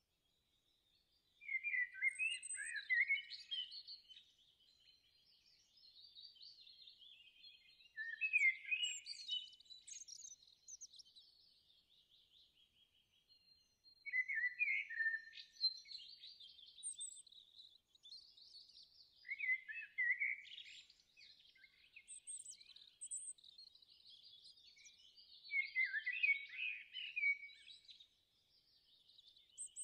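Bird chirping and twittering in several bursts of song a few seconds apart, with nothing lower in pitch underneath.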